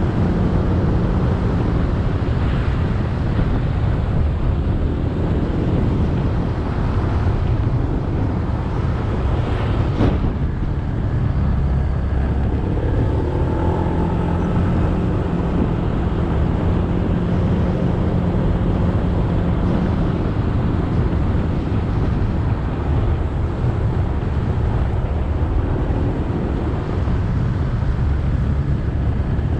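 Motorcycle engine running steadily while riding, with tyre and wind noise over the microphone. A short click cuts through about ten seconds in.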